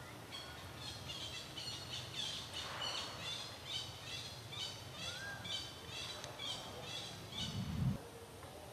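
A bird chirping repeatedly in the background, short high notes at about three a second, with one rising whistle about five seconds in. A brief low rumble or thump near the end is the loudest sound.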